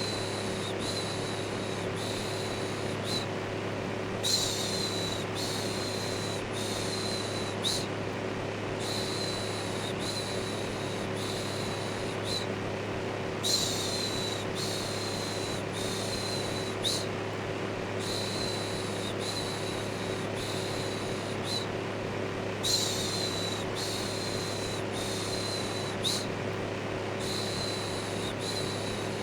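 Steady electric fan noise with a low hum, overlaid by rhythmic shushing: a run of about four 'shh' sounds, a short pause, then another run, every four to five seconds.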